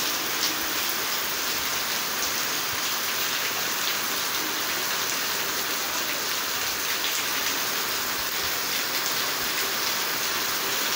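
Steady rain falling: an even hiss with a few sharper drop hits.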